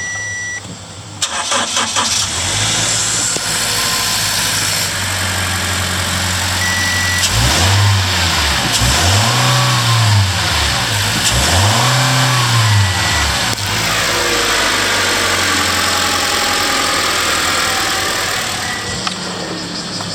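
Toyota HiAce 200-series van's 1TR-FE 2.0-litre four-cylinder petrol engine being started: the starter cranks briefly, the engine catches about two seconds in and idles. It is then revved twice, each rev rising and falling back, and settles to a steady idle. Three short high beeps sound along the way.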